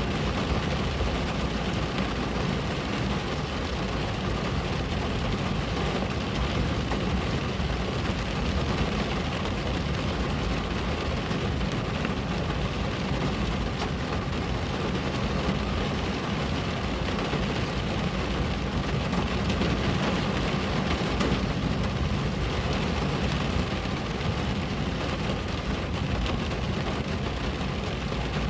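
Steady rain on a window, an even hiss with a continuous low rumble underneath and no pauses.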